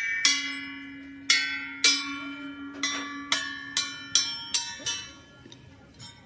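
A hammer striking steel again and again, each blow ringing like a bell; about a dozen blows at an uneven pace, growing fainter near the end.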